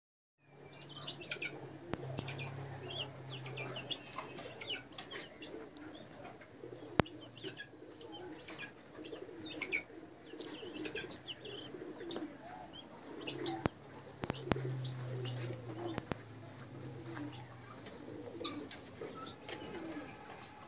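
Many small birds chirping together, with pigeons or doves cooing underneath. A few sharp clicks sound through it.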